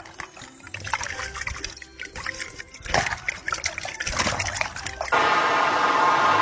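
Irregular water-like drips and trickles. About five seconds in, a sudden, louder steady rush of water-like noise takes over.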